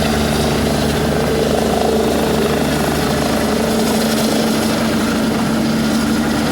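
Helicopter running with a loud, steady rotor and engine sound and a strong steady hum. The deepest rumble weakens about four seconds in.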